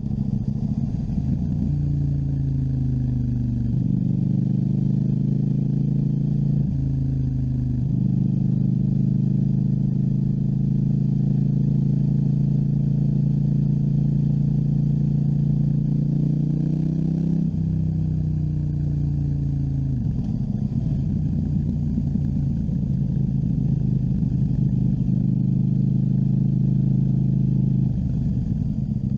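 KTM 790 Duke's parallel-twin engine on the move. It revs up and drops in pitch sharply at gear changes, holds a steady cruise for about ten seconds, then winds down as the throttle is rolled off and the bike slows. It picks up again near the end.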